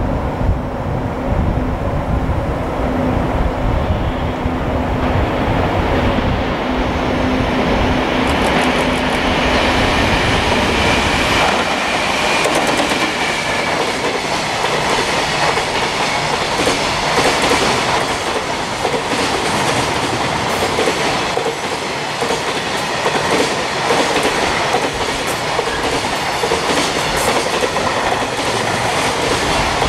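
Freight train passing close by. For the first ten seconds a low rumble and steady hum as the electric locomotive draws near; then a long string of container wagons rolls past, wheels clacking over the rail joints.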